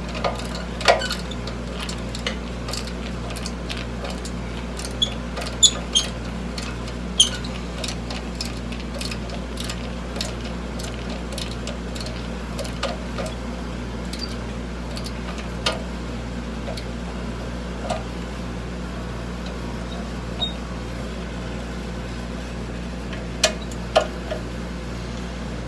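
Scattered sharp clicks and light taps of parts and tools being handled while reassembling a scroll saw, over a steady low hum. The clicks come in clusters, most in the first several seconds and a pair near the end.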